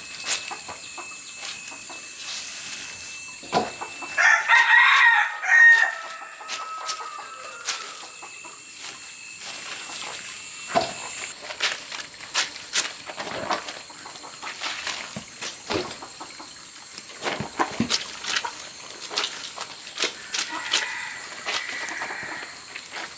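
Rooster crowing once, about four seconds in, with a shorter chicken call near the end. Scattered clicks and knocks run throughout, and a steady high whine runs through the first half.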